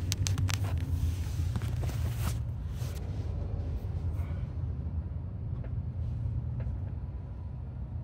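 Low road and drive rumble inside the cabin of a moving Honda N-BOX Custom, with several sharp clicks in the first two seconds and fainter ticks later.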